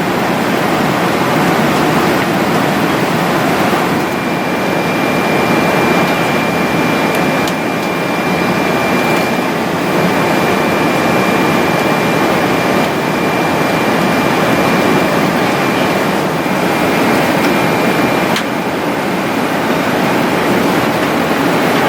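Steady airliner cabin noise inside a Boeing 777-200: an even rush of engine and airflow noise. A faint high whine runs through the middle of it.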